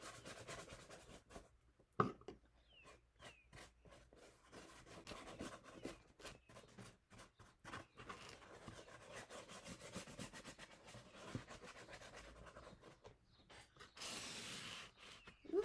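Paintbrush strokes brushing paint onto cardboard: faint, repeated scratchy rubbing. There is one sharp knock about two seconds in and a brief rustle near the end.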